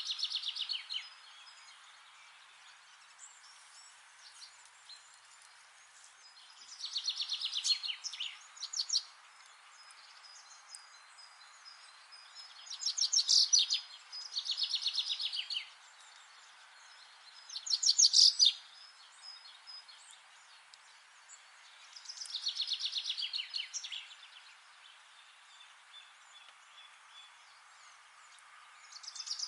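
A songbird singing a fast trilled phrase that falls in pitch, about a second or two long, repeated every few seconds, over a steady background hiss.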